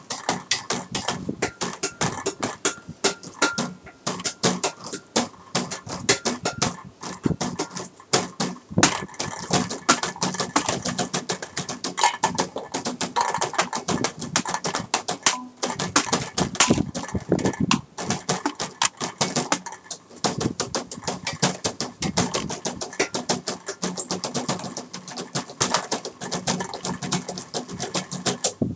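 Improvised percussive music played by tapping and striking everyday objects: a dense, fast run of clicks and knocks in a steady rhythm.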